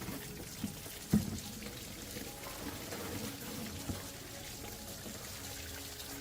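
Liquid pouring and trickling, with a few sharp knocks, the loudest about a second in.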